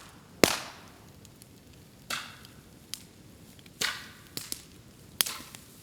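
Bamboo burning on a bonfire: about four loud sharp pops as sealed bamboo sections burst in the heat, each trailing off in a brief hiss, with small crackles between.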